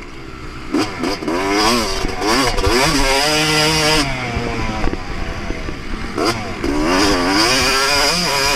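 Yamaha YZ250 two-stroke motocross bike ridden flat out, its engine revving up and dropping back again and again as the throttle is opened and shut, with short stretches held at high revs.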